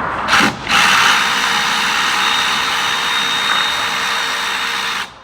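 Compressed-air tool running with a loud hiss of air: a short blip, then a steady run of about four seconds that cuts off suddenly. It is most likely being used to spin out a 10 mm bolt.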